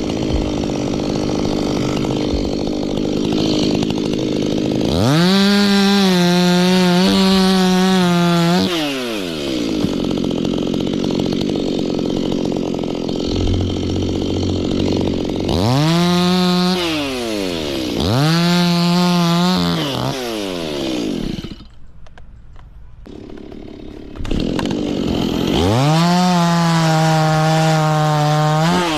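Stihl chainsaw idling and revved to full throttle four times, each time holding high and then falling back to idle, as it cuts into tree limbs. It goes quieter for a couple of seconds late on.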